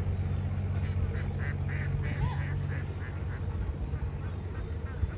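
A flock of domestic ducks quacking, many short harsh calls overlapping, thickest in the first half, over a steady low engine hum.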